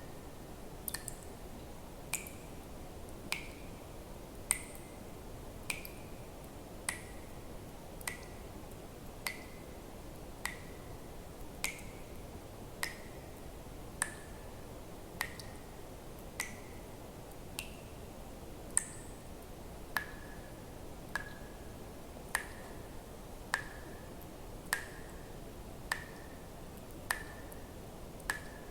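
Water drops falling one at a time into water at a steady pace, about one every 1.2 seconds, each a short high plink whose pitch varies slightly from drop to drop, over a faint steady hiss.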